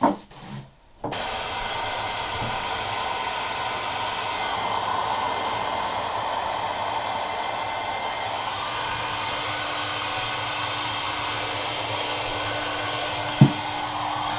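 Steady whirring, blowing noise from a motor-driven machine, starting abruptly about a second in, with a single sharp knock near the end.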